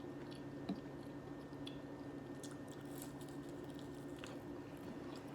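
Faint chewing of Chicken McNuggets, with scattered small wet mouth clicks and a slightly louder click about a second in, over a steady low hum.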